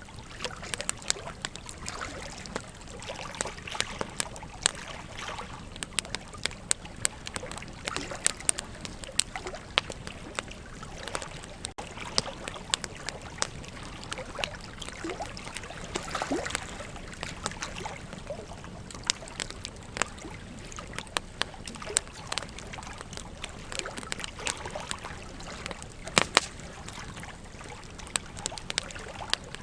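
Wood campfire crackling, with frequent sharp pops and snaps over a steady rush of flowing river water.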